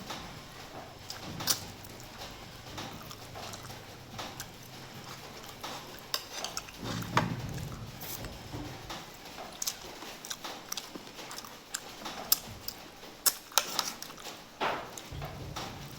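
Someone eating: chewing and mouth smacking, with scattered sharp clicks of utensils against a dish.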